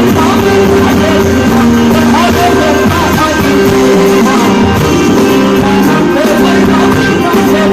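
Loud live fusion music with singing over held instrumental notes.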